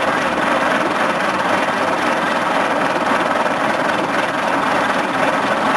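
Starter motor cranking the 1948 Willys CJ-2A's Go-Devil four-cylinder engine, turning it over steadily: the engine, seized until just freed, is now spinning on the starter.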